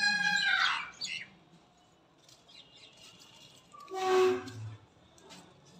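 Birds calling: a long steady call trailing off within the first second, then faint scattered chirps, and one short, loud squawk about four seconds in.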